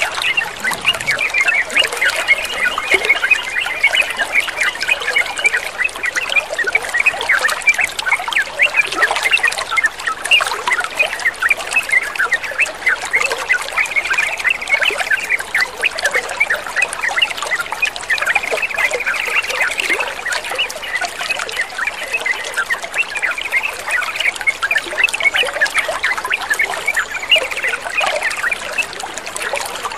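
Yellow-vented bulbul calls: a dense, continuous run of short chirps and chatter, over a steady trickle of running water.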